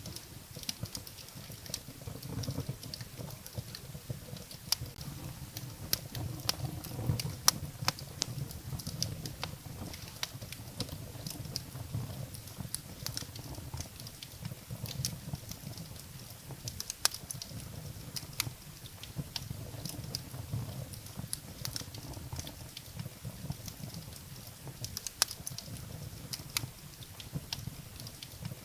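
Wood fire burning in a fireplace: irregular crackles and sharp pops of firewood over a low rumble of flames, with a few louder pops.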